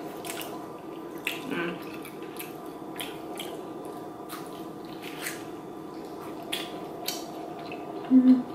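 Close-miked chewing of chicken wings: wet lip smacks and mouth clicks throughout. Near the end comes a loud two-part hummed "mm-hmm" of enjoyment.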